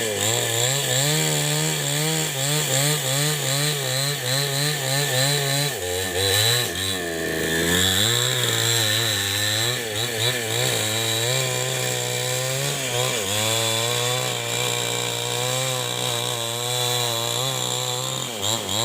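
New West 788 two-stroke chainsaw running under load while ripping wood lengthwise into a beam. Its pitch wavers constantly as the chain bites. It sags for a moment about six to seven seconds in, and drops and recovers briefly near the end.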